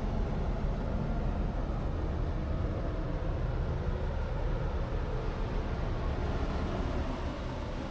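Steady low rumble and hum of a large ferry's machinery and ventilation heard on board, easing slightly near the end.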